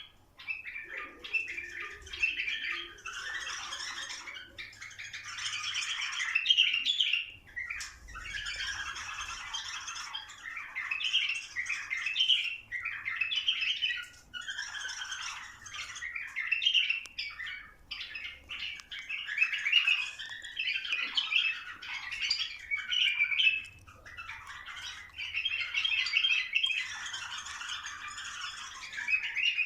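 Bulbuls singing and chattering, one burst of song after another with short breaks between.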